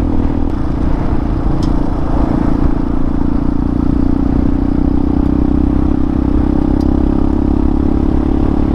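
Hawk 250 dual-sport motorcycle's single-cylinder engine running at a steady cruise, a constant drone over road and wind noise.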